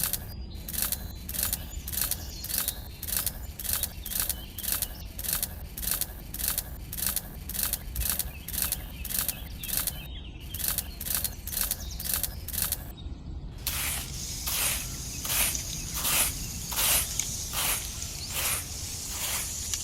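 Water spraying in rhythmic hissing spurts from a small pump, about two to three spurts a second. It breaks off briefly twice and comes back stronger in the last few seconds.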